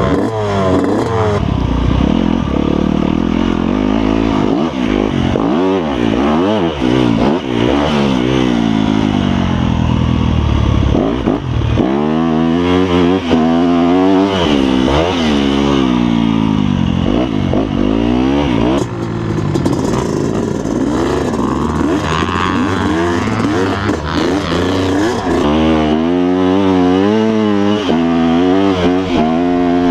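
Motocross dirt-bike engine, just kick-started from cold, being revved over and over, its pitch rising and falling with each twist of the throttle, with quicker blips near the end.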